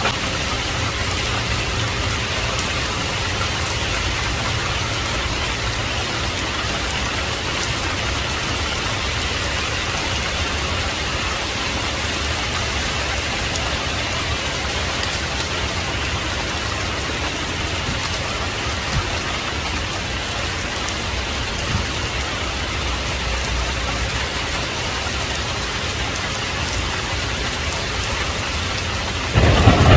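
Heavy rain falling steadily. Near the end a clap of thunder breaks in, sudden and loud, with a deep rumble.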